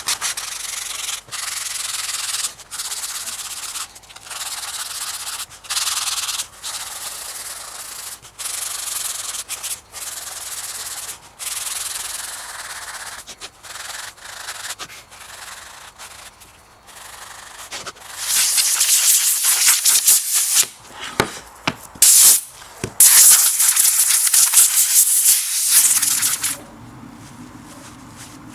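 Rubbing or sanding strokes on a workpiece, about one a second. About two-thirds of the way in, a louder, sharper hissing starts, broken by short pauses, and it stops a couple of seconds before the end.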